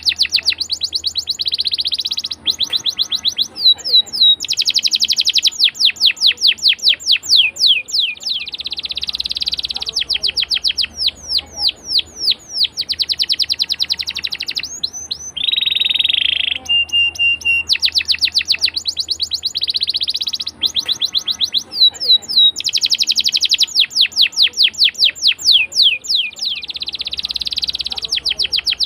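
Domestic canary singing a long rolling song: runs of rapid, repeated downward-slurred notes alternating with buzzy rolled trills, one phrase after another without a break.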